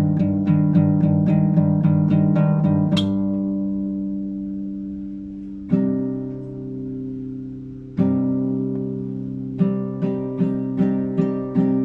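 Classical guitar played solo, improvised: a fast run of repeated plucked notes over a held low note, a short high squeak about three seconds in, then two chords struck and left to ring, and a new run of repeated plucked notes near the end.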